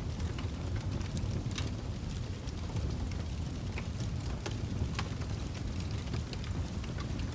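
Wood fire in a fireplace crackling: irregular sharp pops and snaps, several a second, over a steady low rumble of burning flames.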